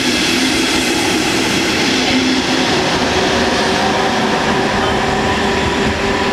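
Electric double-deck regional push-pull train running past on the rails: coaches rolling by, then the pushing electric locomotive at the rear passing about four seconds in, a steady set of hum tones over the continuous wheel and running noise.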